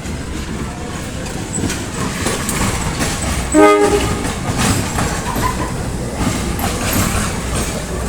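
Train on the track with a steady low rumble and scattered wheel clicks, and one short locomotive horn toot about halfway through.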